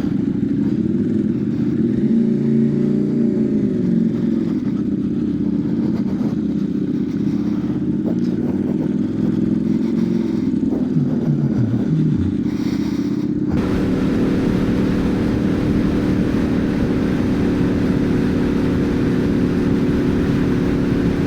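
Motorcycle running on the move, its engine note rising and falling with the throttle. About two-thirds of the way through the sound changes suddenly to a steady engine note with more rushing noise over it.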